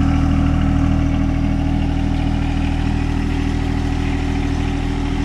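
An engine idling steadily, with an even low throb.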